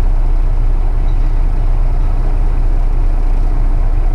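Semi truck's engine running steadily with a low, even drone.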